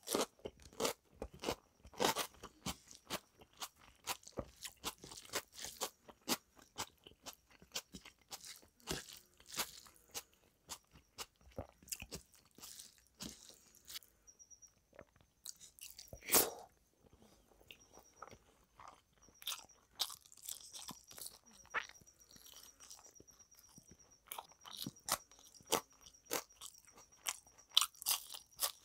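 Close-miked eating: wet chewing and sharp crunching bites of rice and chicken curry, with one louder crunch about halfway through and a bite of raw onion near the end.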